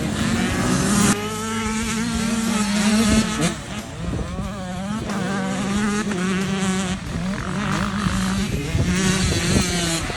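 Dirt bike engines revving on a motocross track, their pitch rising and falling continuously as the throttle opens and closes.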